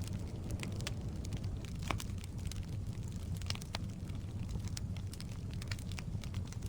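Firewood burning in a fireplace: frequent irregular sharp crackles and pops from the logs over a steady low rumble.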